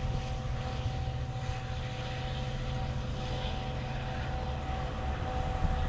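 Long Island Rail Road train of C3 bi-level coaches with a DM30AC diesel locomotive passing at a distance: a steady low rumble with a steady whine over it.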